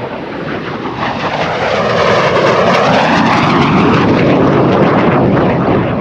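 MiG-17F jet fighter making a pass. Its engine noise builds over the first two seconds, then stays loud through most of the pass with a sweeping, phasing tone as the jet goes by, easing slightly near the end.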